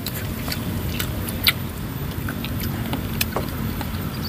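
A person chewing and eating, with short sharp clicky mouth and food noises at irregular intervals over a steady low rumble.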